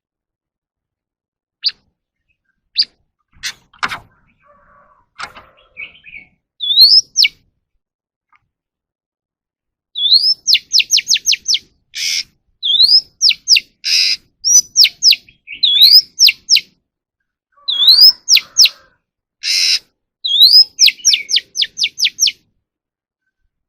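Oriental magpie-robin singing. A few scattered calls come first, then from about ten seconds in a phrase repeats five times: a rising whistle followed by a quick run of sharp notes, with harsh raspy notes between the phrases.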